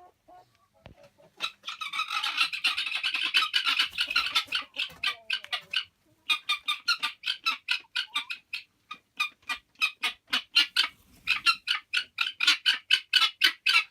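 Domestic poultry calling in a fast run of sharp, repeated notes. The calls are densest at first, break off briefly partway through, then start again.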